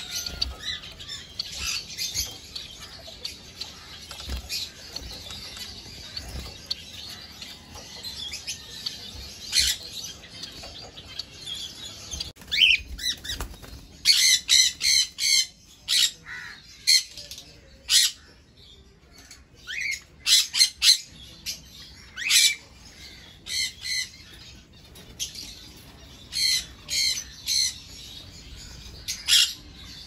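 Caged aviary birds calling: a dense chatter of small birds' chirps at first, then from about twelve seconds in loud, short squawks, often in quick runs of three to five.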